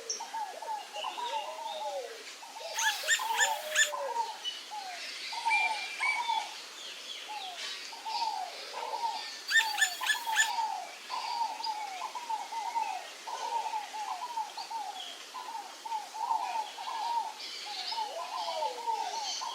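Several wild birds calling together, with a steady stream of short down-slurred calls, arched lower notes every few seconds, and two brief bursts of rapid high notes, one about three seconds in and one about ten seconds in.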